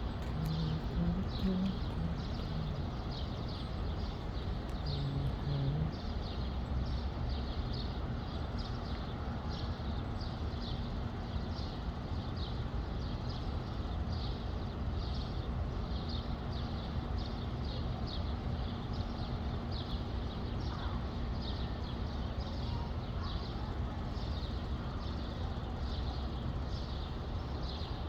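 A bird calling in a steady rhythm, short high notes about twice a second throughout, over a low rumble of breeze on the microphone. A few low notes sound in the first six seconds.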